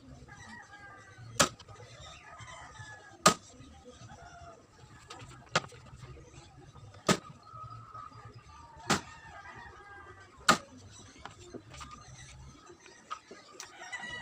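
Six sharp knocks, spaced roughly two seconds apart, over chickens clucking in the background.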